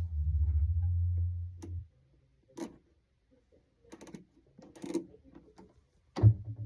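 ASM Hydrasynth synthesizer sounding a low sustained note that stops about two seconds in. A few short faint clicks follow, and a new low note starts near the end.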